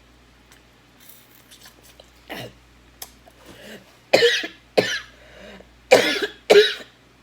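A woman coughing hard on hot-sauce spice: a softer cough, then four loud coughs in two quick pairs in the second half.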